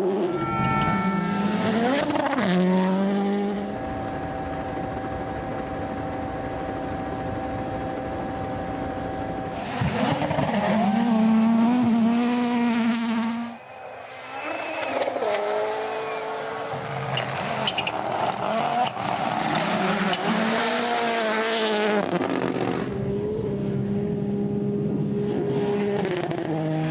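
Rally car engines at full stage pace, revving up and dropping back through gear changes, with one long stretch at a steady pitch and a brief sharp drop in level about halfway through.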